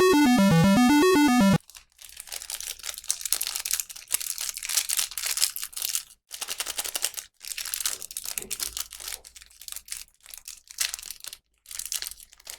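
A short burst of bouncy electronic game-style music cuts off about a second and a half in, followed by irregular bursts of crinkling and tearing of plastic packaging as a toy is unboxed.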